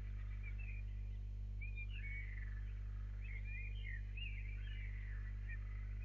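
Birds chirping and calling in short, quick, up-and-down notes over a steady low electrical hum.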